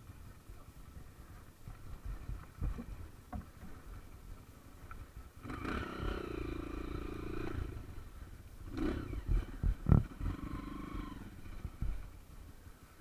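Engine of an off-road trail vehicle revving in a few bursts, the longest lasting about two seconds midway, over a low rumble.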